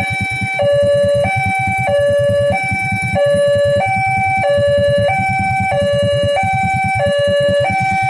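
Electronic two-tone warning alarm of a railway level crossing, sounding steadily and switching between a lower and a higher tone about every two-thirds of a second: the crossing is active and the gates are signalling a train. A low rumbling runs underneath.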